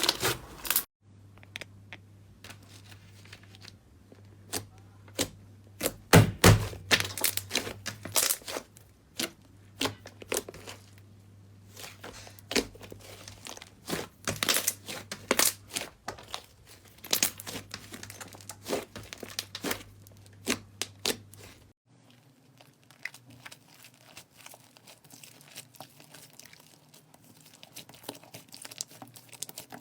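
Slime being squeezed, pressed and stretched by hand: irregular sticky crackling and popping. The sound changes abruptly about a second in and again about three quarters of the way through.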